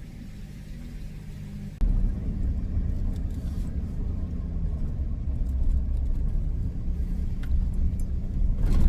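Car engine and road rumble as the car pulls away and drives off, the rumble stepping up sharply about two seconds in.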